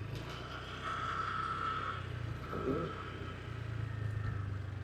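Honda Click motor scooter's small single-cylinder engine running steadily at low revs.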